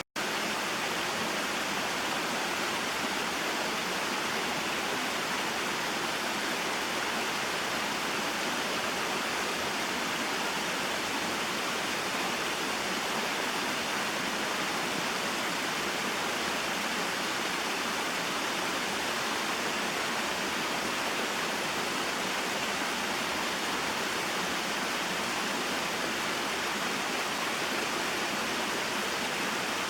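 Small waterfall and mountain stream: a steady, even rush of flowing water, broken only by a split-second dropout at the very start.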